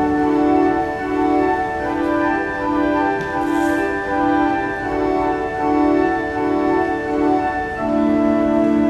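Pipe organ playing held chords over a middle-register note repeated in even pulses, roughly one every 0.6 s.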